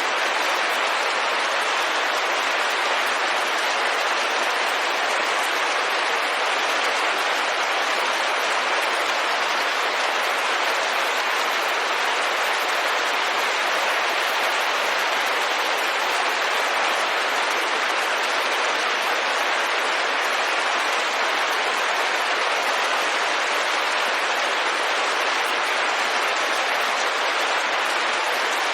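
Steady rain pattering on a window pane: an even hiss of countless drops that does not change in level.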